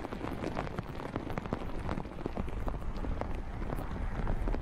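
Heavy rain falling onto a flooded road and floodwater, a steady hiss with many sharp, close raindrop hits.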